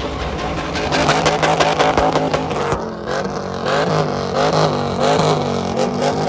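Truck engine revving hard, its pitch rising and falling again and again, loud.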